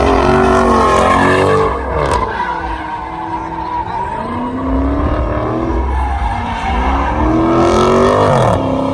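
Car engine revving hard during a burnout, its pitch dropping about two seconds in, climbing again and falling near the end, with tires squealing.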